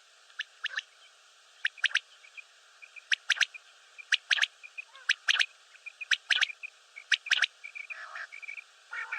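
Common quail calling: sharp, clipped notes in quick groups of two or three, repeated about once a second, with faint softer notes in between.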